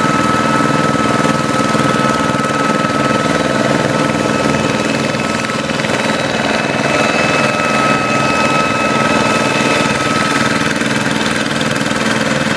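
Hand tractor's single-cylinder diesel engine running steadily while pulling a harrow through a flooded rice paddy.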